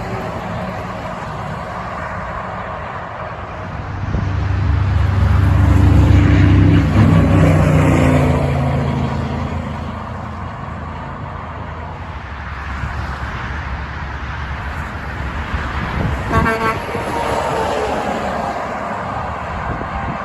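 Heavy truck passing in road traffic. It swells loudest about four to nine seconds in and its pitch drops as it goes by. A short horn toot sounds about three-quarters of the way through.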